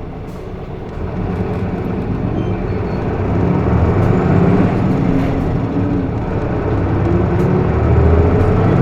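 Cabin sound of a 2012 Hino Blue Ribbon II city bus with a manual gearbox: the diesel engine pulls harder as the bus accelerates, growing louder from about a second in. Its pitch rises, dips briefly around the middle, then rises again.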